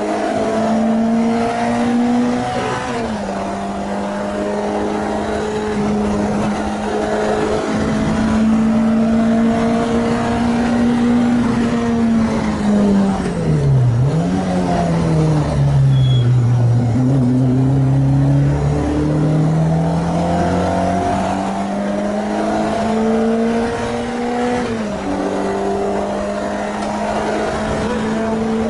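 Renault Clio 2 RS MiniCup's freshly rebuilt four-cylinder engine running hard on track. Its pitch drops quickly at upshifts about three seconds in and near the end. Midway the revs fall to a low note for a few seconds, then climb again.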